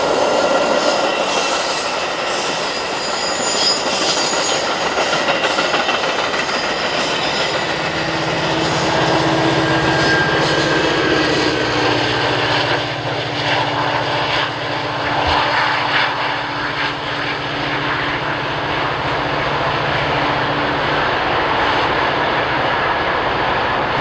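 Amtrak passenger train passing on the mainline: a constant rushing of steel wheels on rail with clicking over the joints. A steady low hum joins in about eight seconds in and stops a few seconds before the end.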